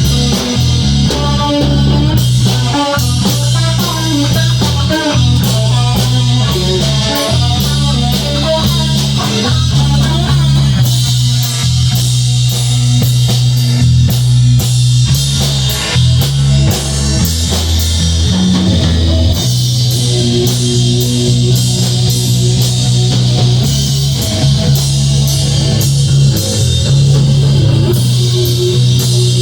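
Rock band playing an instrumental section: electric guitar soloing over drum kit and bass guitar.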